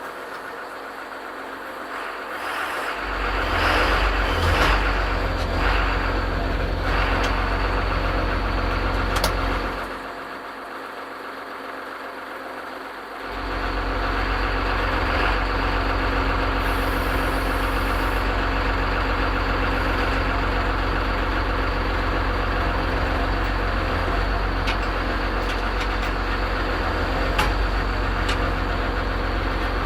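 An engine running steadily with a low hum. It comes in about three seconds in, drops out for about three seconds around the ten-second mark, then runs on.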